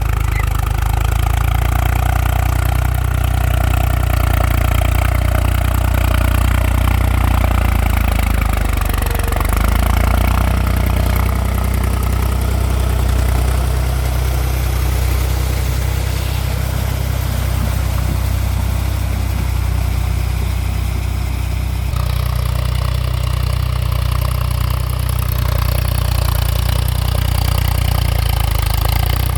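Mahindra 275 TU tractor's three-cylinder diesel engine running steadily, its note changing about ten seconds in and again a little past twenty seconds.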